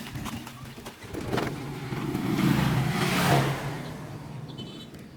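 A motor vehicle passing by: engine hum and rushing noise build up from about a second in, peak around three seconds, then fade away.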